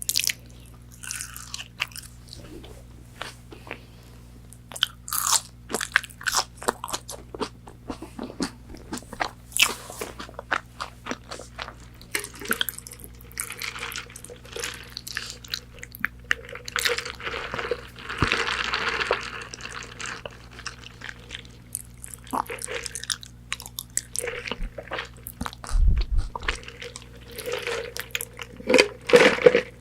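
Close-miked crunchy bites and chewing of McDonald's chicken nuggets, with many sharp crisp crunches and a denser stretch of chewing in the middle.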